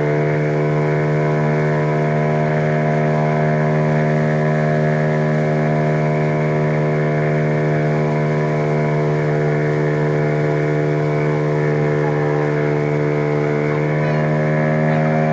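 The boat's motor running at a steady speed, giving an even, unchanging drone.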